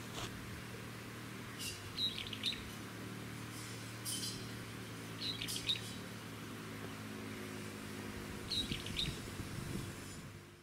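Small birds calling in short clusters of quick, high chirps every few seconds, over a faint steady low hum.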